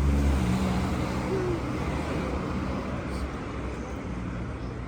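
City road traffic: a motor vehicle's engine passing close, loudest at the start and fading away over a few seconds, above the steady hum of surrounding traffic.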